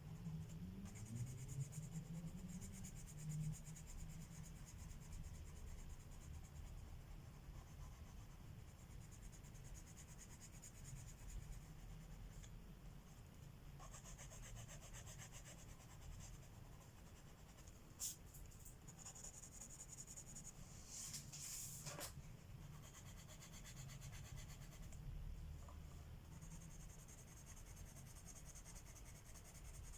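Colored pencil scratching faintly on paper in stretches of back-and-forth strokes, with a few light clicks a little past halfway.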